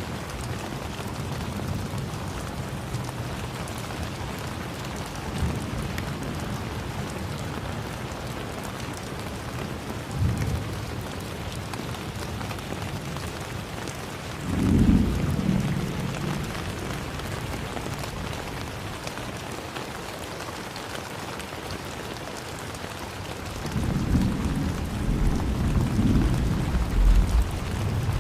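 Steady rain falling in an even hiss, with low rumbles of thunder: a short one about ten seconds in, a louder one about halfway, and a longer rolling one near the end.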